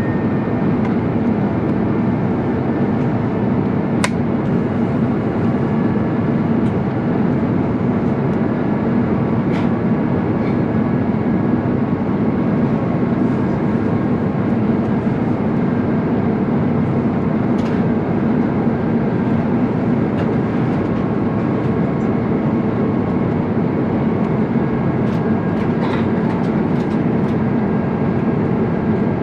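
Steady cabin noise of an Airbus A350-900 climbing after thrust reduction: its Rolls-Royce Trent XWB engines and airflow make an even, deep noise with a faint high whine. A single sharp click sounds about four seconds in.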